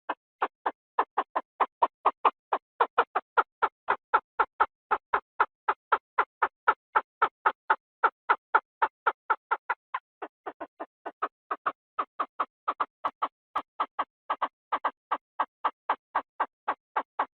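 Chinese francolin (field quail, นกกระทาทุ่ง) calling in a rapid, even series of short notes, about three to four a second, briefly quieter around ten seconds in. This is the kind of recording played as a decoy call to lure the birds.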